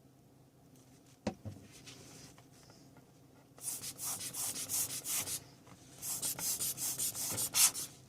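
A single click about a second in, then quick scrubbing strokes in two bursts of roughly two seconds each.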